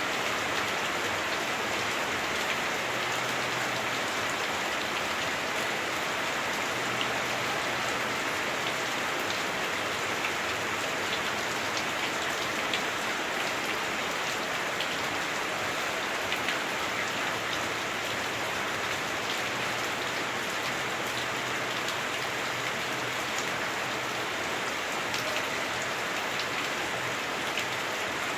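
Heavy rain drumming on a house roof, heard from indoors: a steady, dense hiss with many small sharp drop taps scattered through it.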